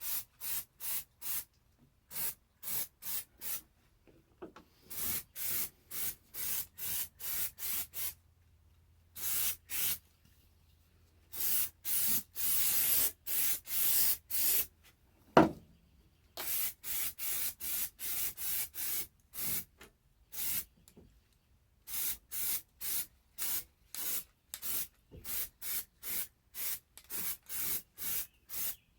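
Rhythmic back-and-forth rubbing strokes on a surface, about two a second, with a few pauses and a longer unbroken stretch midway. There is one sharp knock about fifteen seconds in.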